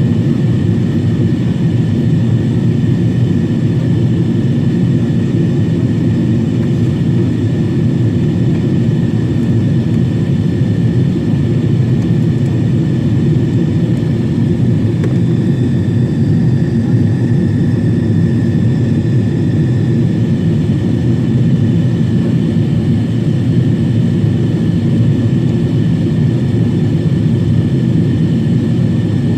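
Steady drone of a Boeing 777-300 in flight as heard inside the passenger cabin: a deep, even rush of engine and airflow noise with a faint steady whine above it.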